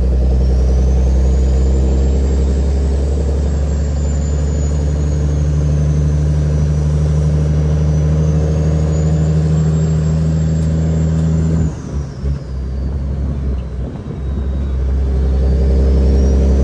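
Caterpillar 6NZ (3406E) inline-six diesel in a loaded Kenworth W900L, pulling steadily under load. About twelve seconds in, the engine note drops away for around three seconds, then builds again. A thin high whistle rises and falls with the engine.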